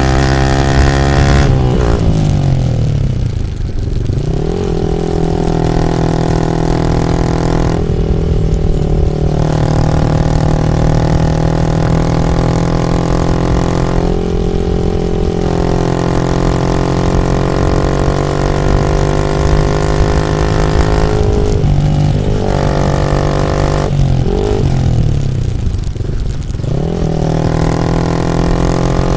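Yamaha MT-15 V2's single-cylinder engine running loud through a full Akrapovic aftermarket exhaust. Its pitch climbs, drops sharply about a second and a half in, and then rises again. It holds steady for a long stretch, sags twice late on, and climbs again near the end.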